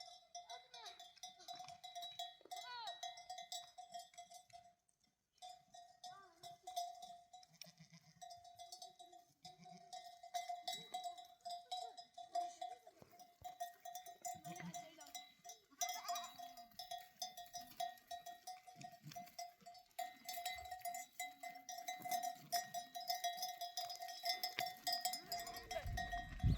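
Bells on a flock of sheep and goats ringing on and on, with scattered bleats.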